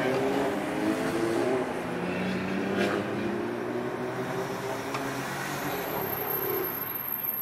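Several car engines running in the surrounding traffic, heard from inside a car cabin, with engine notes that rise and fall a little over a steady road drone.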